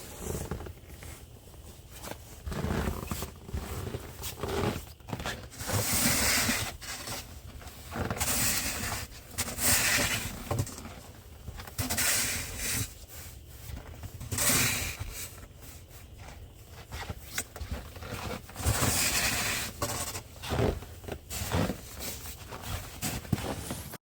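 Snow crunching and scraping in uneven, repeated strokes, one to two seconds apart.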